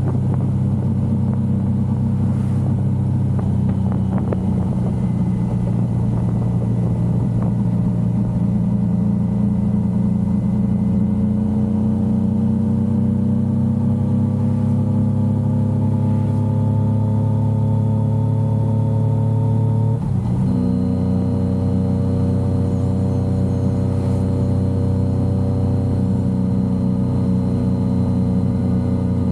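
Yamaha XSR900's inline three-cylinder engine running under way, its pitch climbing slowly as the bike gathers speed. About twenty seconds in there is a brief break in the sound, an upshift, and then it runs steadily at a slightly lower pitch.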